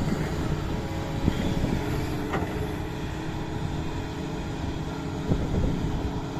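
Doosan DX225 hydraulic excavator's diesel engine running steadily at work, with a couple of sharp clanks, one about a second in and one near the end.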